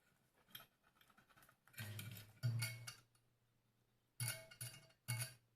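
Multimeter continuity check on an electric iron: metal probe tips clicking against the contacts, with short broken-off beeps from the meter's continuity buzzer as contact is made and lost, four times.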